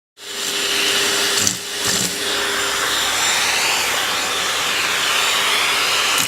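Vacuum cleaner running steadily with a steady whine, with a brief dip and a couple of knocks about one and a half to two seconds in.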